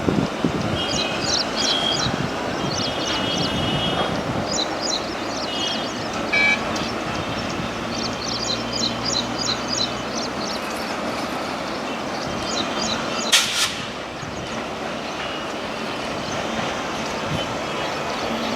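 Passenger train's diesel engine running steadily as the train approaches, with birds chirping in short repeated high notes. A single sharp click about 13 seconds in.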